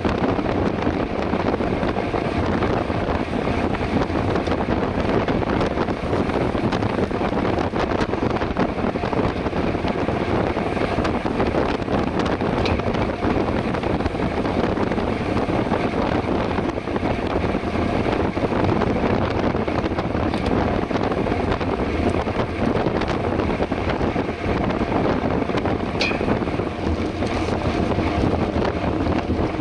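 Steady rush of wind buffeting the camera microphone while riding a mountain bike at race pace.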